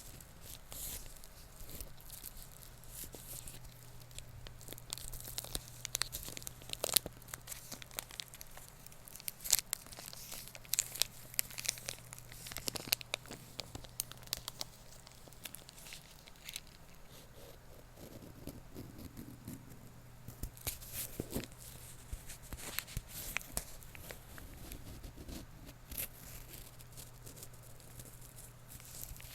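Close-miked scratching and crinkling handling sounds: a dense run of irregular, sharp scratchy strokes and crackles, with a faint steady low hum underneath.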